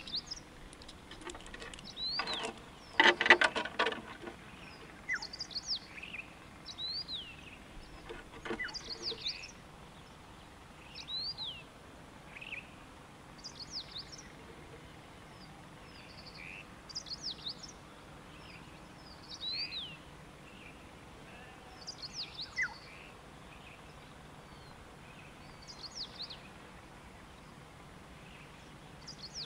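Wild birds singing: short, sharp whistled notes, repeated every second or two. About two to four seconds in comes a loud rapid rattle, the loudest thing, with a shorter one near eight and a half seconds.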